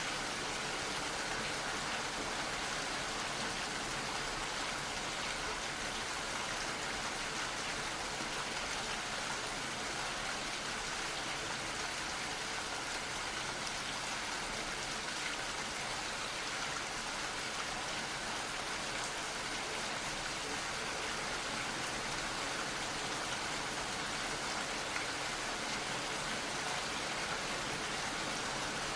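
Gentle rain falling steadily, an even patter of drops with no let-up.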